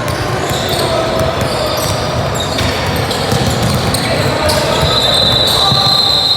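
Basketball game on an indoor court: a ball bouncing, shoes squeaking in short high squeaks, and background voices.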